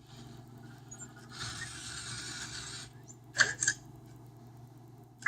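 Anki Vector robot's small drive motors and treads whirring as it moves, then two short, sharp mechanical sounds about three and a half seconds in.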